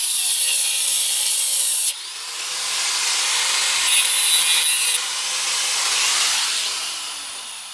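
Sustained rasping of abrasive work on motorcycle parts, most likely sanding or grinding. It changes abruptly about two seconds in and again around five seconds, then tails off near the end.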